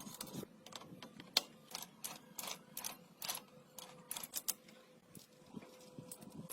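Irregular mechanical clicking and tapping, several clicks in quick clusters, as hand tools work on metal parts of a motorcycle under restoration, over a faint steady hum.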